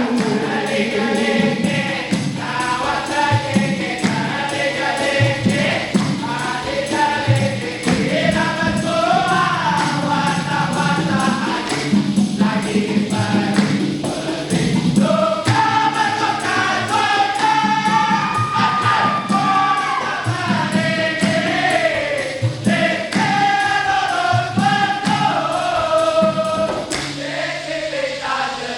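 A vocal group singing in harmony, several voices moving together, with a percussion beat underneath.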